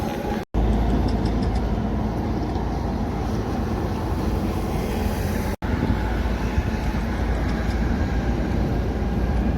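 Heavy truck traffic: a steady, deep engine and road rumble. It drops out abruptly twice, about half a second in and again just past the middle.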